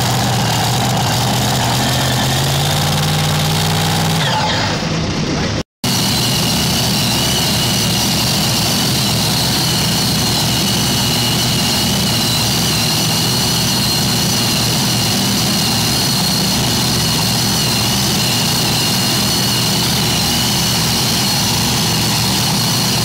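Loud engine of a tractor-pull vehicle running hard, rising in pitch in the first few seconds; after an abrupt cut just under six seconds in, a steady, dense engine sound with a high whine continues.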